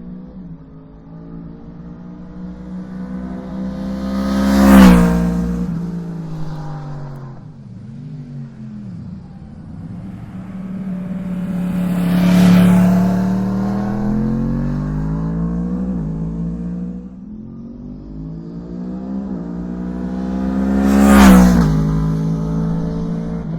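Yamaha MT-10 SP's crossplane inline-four through an Akrapovic exhaust, revving up and easing off three times, loudest about five, twelve and twenty-one seconds in.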